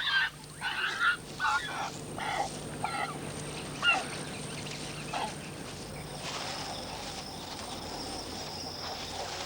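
Ground hornbills feeding, with short, irregular calls and clicks. From about six seconds in, a steady high-pitched drone comes in.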